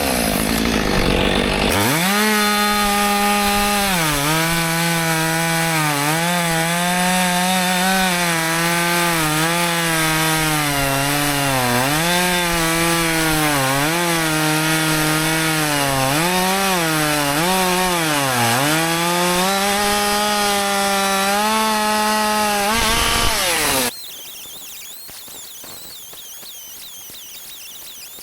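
Husqvarna 564 XP two-stroke chainsaw at full throttle bucking firewood, its engine pitch sagging each time the chain bites into a cut and climbing back between cuts, over a dozen cuts in a row. The engine sound cuts off suddenly near the end.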